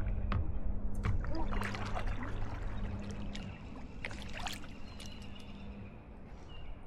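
Kayak paddle dipping and splashing, with water trickling and dripping off the blade in a few short bouts, over a low steady hum that stops about six seconds in.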